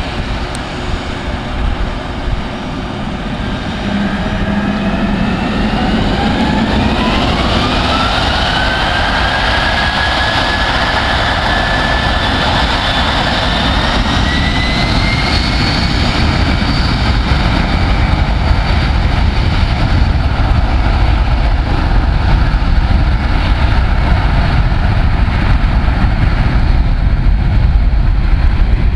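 Boeing 757-200 jet engines spooling up to takeoff thrust: a whine climbs in pitch over several seconds, rises again a little later and then holds steady, while a deep rumble grows louder as the takeoff roll builds.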